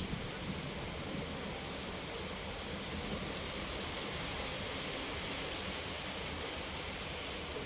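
Steady rain falling, a continuous even hiss, with the last of a thunder rumble fading out right at the start.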